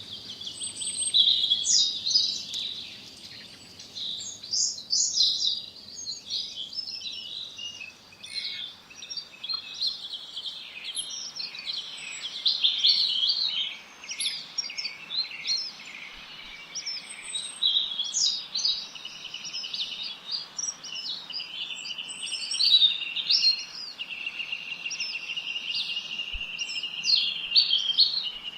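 Many songbirds chirping and singing at once, a dense overlapping chorus of short high calls and quick sweeps. About two-thirds of the way in, a steady high note sets in underneath the chirping and holds.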